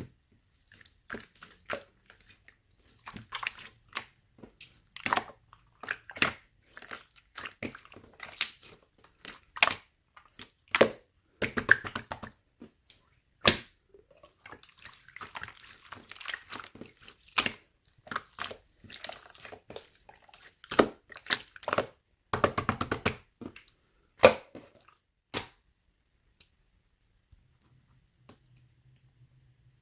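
Hands handling paper and plastic wrapping: an irregular string of sharp taps and clicks with stretches of crinkling, then it goes quiet near the end apart from a faint low hum.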